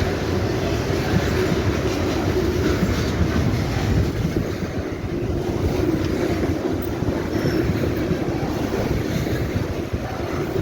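Fuel freight train rolling past: a steady, loud rumble of wheels on the rails with light clatter from the cars.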